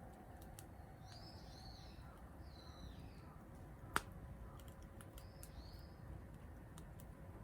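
Faint wood fire crackling in a stainless-mesh fire stand, with scattered light ticks and one sharp pop about four seconds in. A small bird gives short high calls three or four times.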